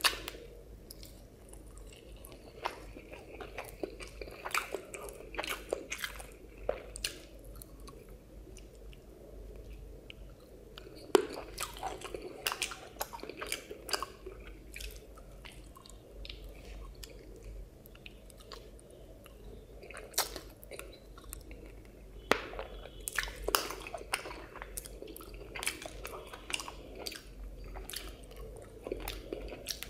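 Close-miked chewing and biting of hand-fed mouthfuls of rice, egg curry and cauliflower, with irregular wet mouth clicks and smacks and some crunching.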